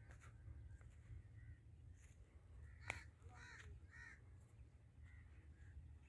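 Faint bird calls outdoors: a few short calls, the clearest a pair about three and a half to four seconds in, over a low steady rumble. A single sharp click comes just before the pair.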